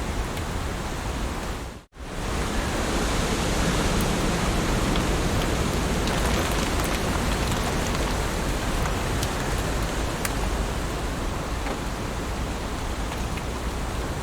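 Heavy rain falling steadily, an even hiss with scattered drop ticks. About two seconds in it cuts out almost completely for a split second, then comes straight back.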